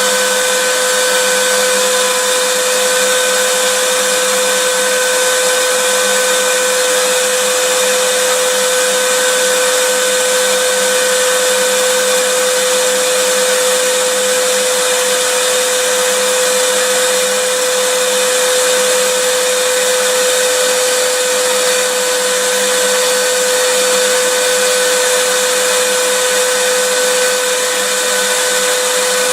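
Vacuum cleaner running steadily: an even rushing hiss of air with a steady whine in it.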